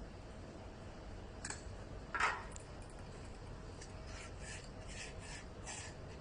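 Coffee press being handled and taken apart for cleaning: a light click about a second and a half in, a louder clack just after two seconds, then a run of short rubbing scrapes near the end.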